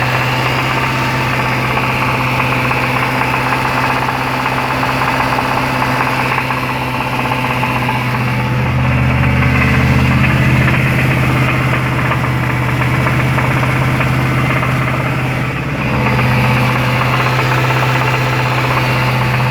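Jaguar XFR's supercharged 5.0-litre V8 running with a constant rod knock: a big-end bearing worn out through oil starvation. Its low note shifts about eight seconds in and dips briefly a few seconds before the end.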